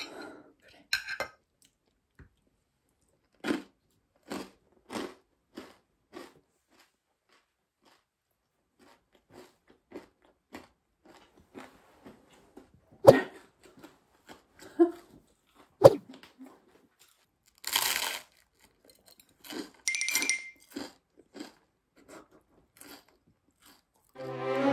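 Crisp toast being bitten and chewed close to the microphone: scattered short crunches, with two sharp clicks in the middle. Music comes in at the very end.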